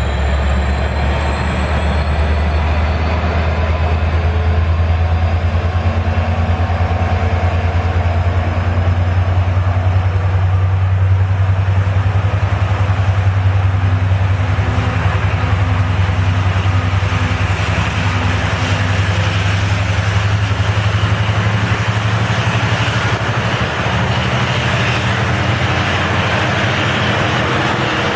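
A diesel-electric locomotive pulls a train of double-deck passenger coaches past the platform as it departs. The engine gives a deep steady hum under the rolling noise of the coaches, which swells through the middle, and a faint high whine climbs slowly in pitch throughout.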